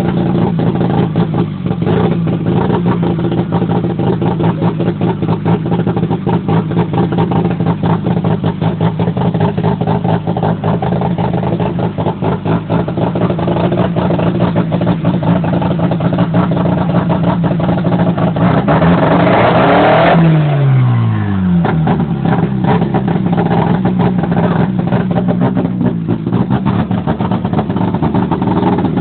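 Freshly built Mazda 13B turbo twin-rotor rotary engine running with no exhaust fitted, so it is unmuffled. It idles steadily, is revved up once about two-thirds of the way through, and drops back to idle.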